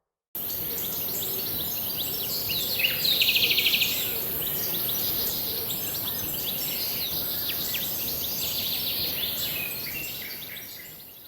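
Forest birdsong: many birds chirping and calling over a steady high hiss, with one loud, fast trill about three seconds in. It starts suddenly just after the start and fades out near the end.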